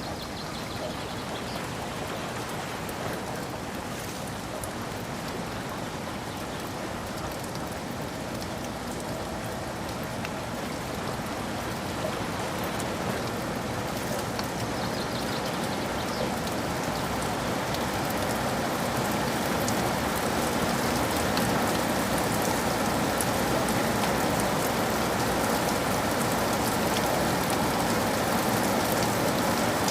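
Steady rainfall with many small drops pattering on a surface, growing gradually heavier and louder through the stretch.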